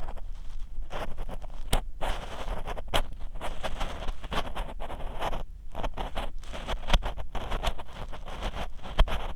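Ear pick scraping and rubbing inside the ear of a 3Dio binaural microphone: a continual run of short, irregular scratchy strokes, with a few sharp clicks.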